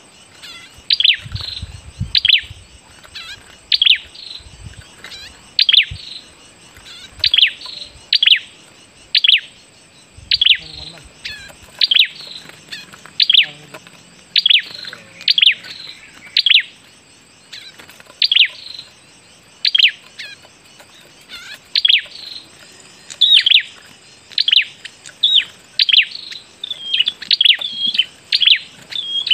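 A small bird calling over and over in short, sharp, downward-sliding notes, roughly one a second. A few low knocks come in the first few seconds and again about ten seconds in.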